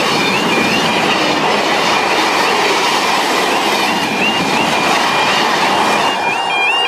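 Freight train rolling past a level crossing behind Class 66 diesel 66728, the wagons' wheels clattering on the rails. Over it the crossing's warning alarm repeats a short rising tone about every half second, louder near the end.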